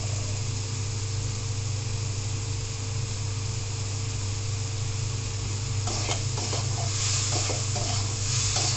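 Prawns sizzling as they fry in spiced oil in an aluminium wok, with a steady low hum underneath. From about six seconds in, a metal spatula scrapes the pan as it stirs them.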